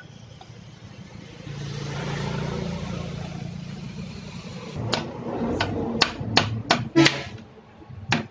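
Power tiller engine running with a steady low drone. About two-thirds of the way in, a run of about eight sharp knocks or clanks comes over it.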